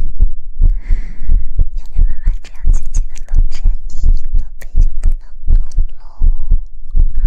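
Rapid, uneven soft thumps, about three or four a second, from hands patting and rubbing over the microphone, with breathy, whisper-like hiss between them.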